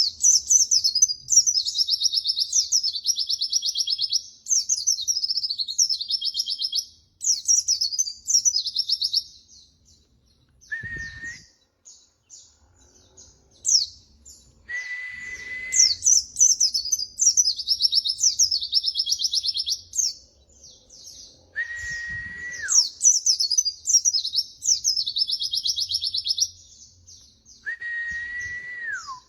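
Pleci (white-eye) singing in long bursts of fast, high twittering song, with gaps between phrases. A separate steady whistled note that slides down at its end sounds four times in between.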